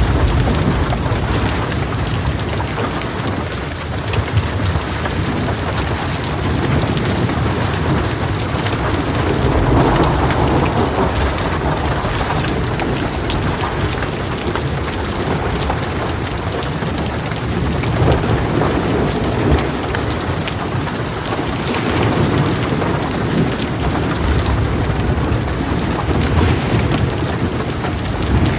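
Heavy rain drumming steadily on a metal roof, with thunder rumbling in several low swells, the strongest about ten seconds in.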